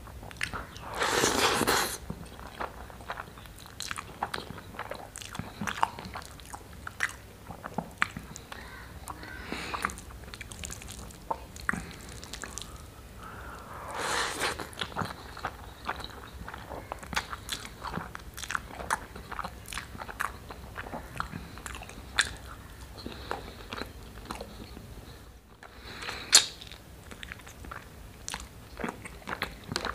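Close-miked eating sounds of a man chewing mouthfuls of rice and chickpea curry: wet chewing and lip smacks in many short clicks. Two louder noisy bites, about a second in and about halfway, as handfuls of rice go into the mouth.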